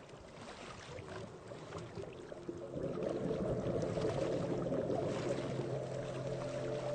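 Waves washing onto a pebble beach, with stones clicking and rattling in the water; the surf swells louder about three seconds in.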